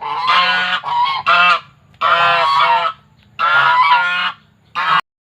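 Swan honking: a run of loud, nasal honking calls, about five of them, each under a second long with short gaps between.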